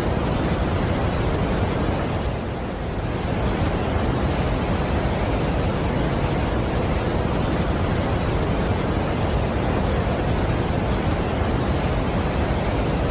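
Steady, dense rushing of a large waterfall, an even white-noise-like roar, with a brief slight dip about two and a half seconds in.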